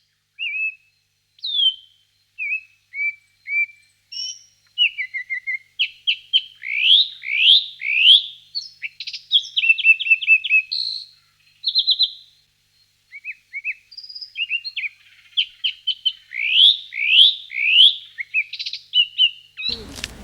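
A songbird singing: a varied song of short whistled notes, rapid trills and repeated quick rising sweeps, with a brief pause about halfway through.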